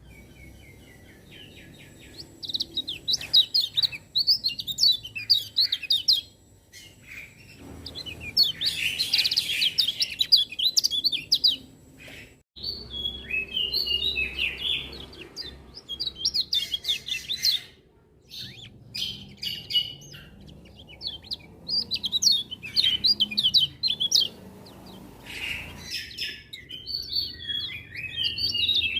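Kecial kuning, a white-eye, singing: long bouts of rapid, high twittering song with short breaks between them.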